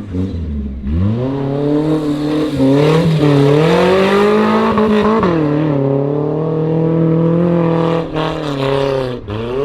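Off-road 4x4 competition vehicle's engine revving hard under load; the pitch climbs about a second in, holds high, falls off briefly about five seconds in, runs steady, then drops and rises again near the end.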